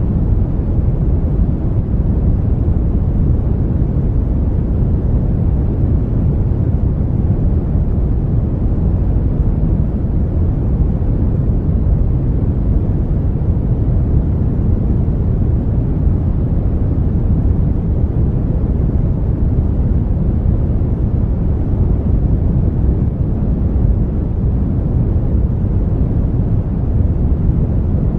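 Brown noise: a steady, even low rumbling hiss, strongest in the bass and rolling off toward the treble, with no changes or events.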